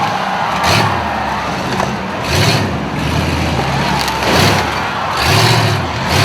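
Big vehicle engines revving and accelerating, rising and falling in pitch, with about five short, loud surges of noise.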